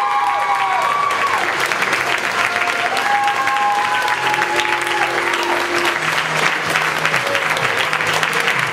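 Audience applauding steadily, with music of held, gliding notes playing over the clapping.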